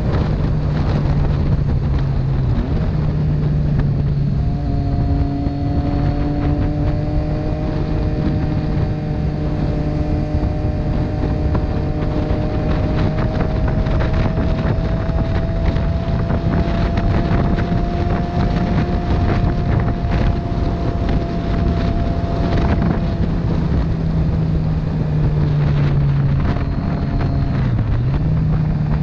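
Motorcycle engine running at a steady cruise under heavy wind noise on the microphone. The engine note holds nearly level, with a short dip in pitch near the end as the throttle eases.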